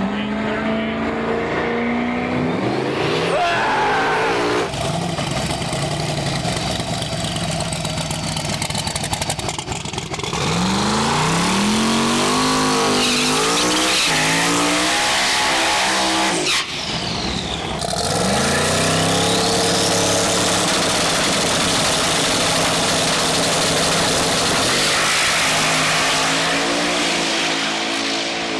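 High-powered drag race cars accelerating hard, their engines climbing in pitch and dropping back as they shift. The sound changes abruptly a few times, as if from one car to the next.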